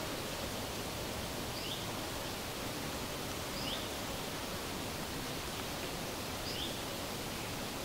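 Countryside ambience by a pond: a steady rustling hiss, with a bird repeating a short, high call three times, about two seconds apart.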